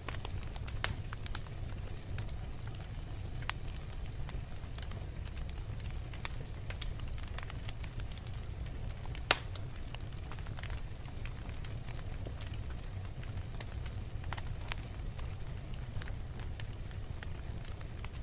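Wood logs burning in a fireplace: a steady low rumble of flames with scattered sharp crackles and pops, one louder pop about halfway through.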